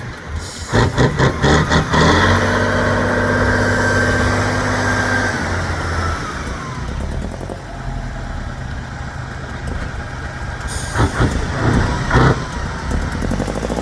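Trial truck's engine revving hard and holding high for a few seconds, then easing back to a lower run. A rapid series of sharp clatters comes about a second in and again near the end.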